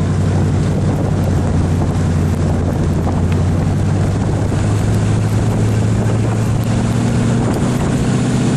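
A Ford Explorer's 5.0-litre V8 running steadily under way in deep snow, a low engine drone. Its pitch rises slightly about halfway through and again near the end.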